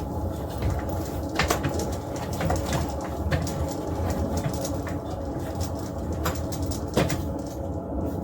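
Dryer-vent cleaning rods and brush spun by a drill inside the vent duct: a steady low rumble with scattered knocks as the rods rattle against the duct.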